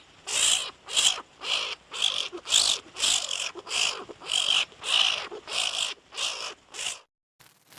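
A bird giving short, harsh calls over and over, about two a second, stopping near the end.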